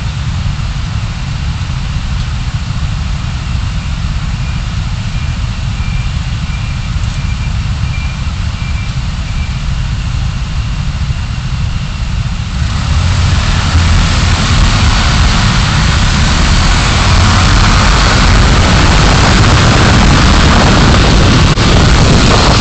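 Car driving noise: a steady low engine and road rumble that grows abruptly louder and fuller about halfway through, then stays at that level.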